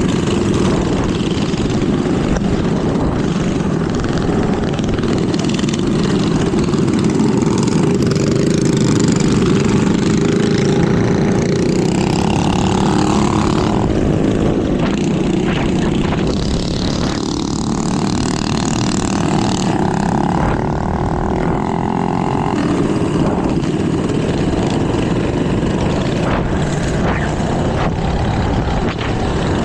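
Small minibike engines running steadily while riding in a group, with a steady engine drone throughout and no breaks.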